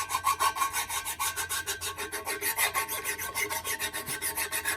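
Handheld electric drill boring through a steel plate where the new hole overlaps an old offset one: an interrupted cut, so the bit's cutting lips chatter with a rapid grating pulse, about ten a second, at high speed.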